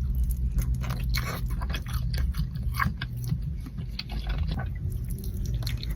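A person biting and chewing saucy chicken wings close to the microphone, with many short irregular mouth clicks, over a low steady hum.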